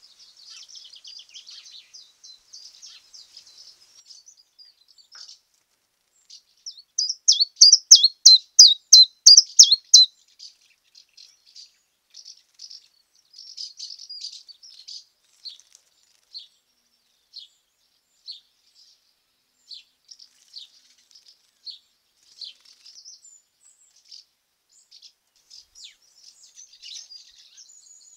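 Small songbirds chirping and calling, short high notes scattered throughout, with a loud quick run of about a dozen chirps, roughly four a second, about seven seconds in.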